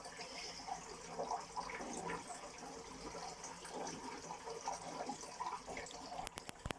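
Water trickling and splashing in a turtle tank, with small irregular spatters throughout and a few sharp clicks near the end.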